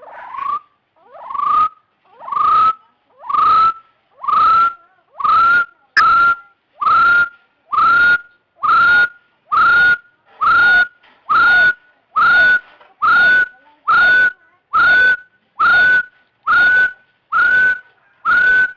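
Hill partridge calling: a long series of about twenty rising whistled notes, a little under one a second, each sweeping up and levelling off. The series creeps slightly higher in pitch as it goes on.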